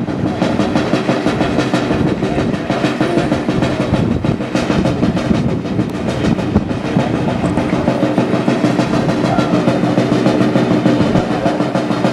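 Continuous snare drum roll, steady and loud, in the lead-up to the firing of a ceremonial cannon.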